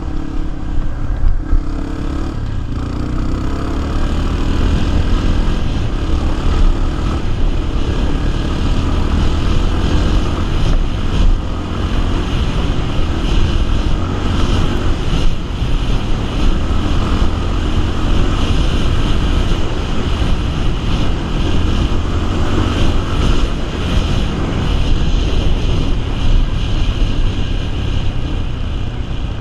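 Small single-cylinder four-stroke dirt bike engine running while the bike is ridden, loud and steady.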